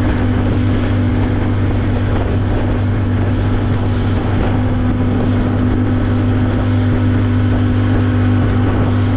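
Skiff's outboard motor running steadily under way, a constant low hum with the rush of the hull through the water.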